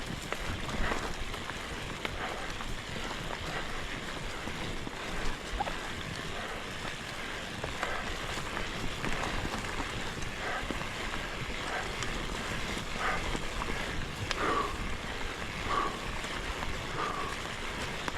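Mountain bike rolling along a dirt singletrack: a steady rush of wind on the microphone mixed with tyre and trail noise, with a few short, faint squeaks in the second half.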